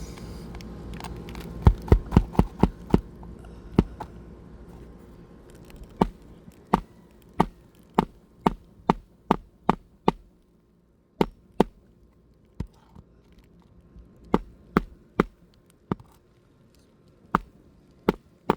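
Hammer driving roofing nails back into an asphalt shingle: a quick flurry of sharp strikes about two seconds in, a steady run of blows roughly every 0.7 s, then scattered single taps with short pauses.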